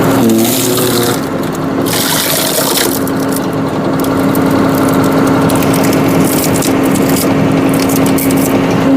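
Tractor-driven hydraulic log splitter working under load: the tractor engine runs with a steady hum while a hissing, rushing noise comes and goes in stretches as the ram drives the wedge through a large log.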